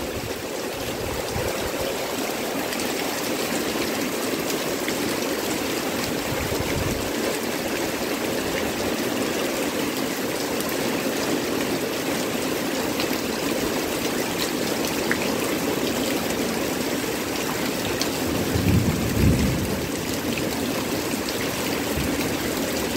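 Heavy rain pouring steadily onto foliage and ground, with a couple of short low rumbles, about seven seconds in and again around nineteen seconds.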